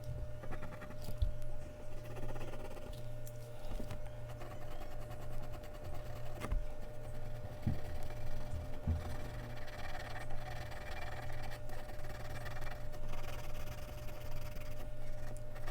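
Mechanical pencil scratching back and forth on Bristol paper in uneven strokes, with a few soft knocks on the desk and a steady electrical hum underneath.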